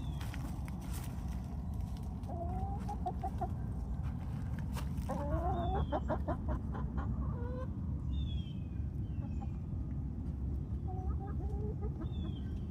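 Free-range backyard hens clucking and calling in short runs, busiest about halfway through, over a steady low background rumble.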